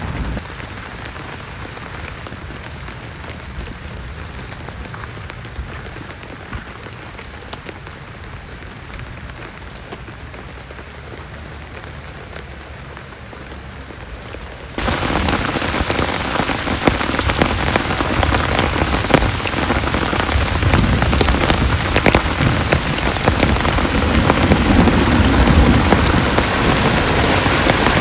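Rain falling steadily. About halfway through it turns suddenly much louder and denser, a heavy downpour with a close patter of drops hitting a surface.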